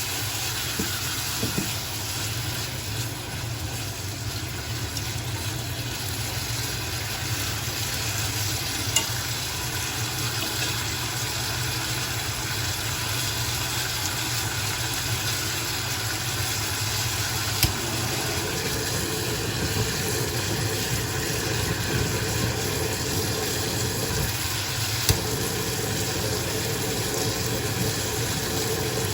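Strong wind blowing steadily across the microphone with a low rumble, broken by a few sharp clicks.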